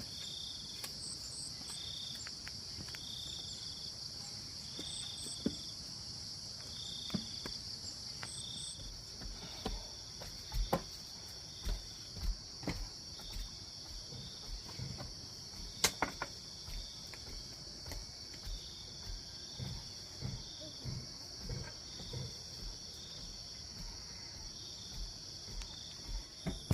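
Steady chorus of insects with a pulsing high chirp repeating every second or so. From about a third of the way in, dull low thumps repeat irregularly, with a couple of sharp clicks.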